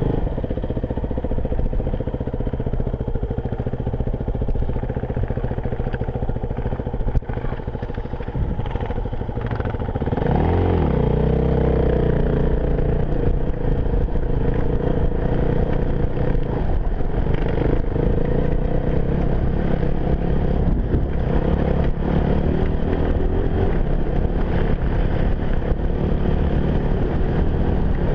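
Enduro motorcycle engine running along at steady revs, then revving up about ten seconds in and running louder and harder from there on.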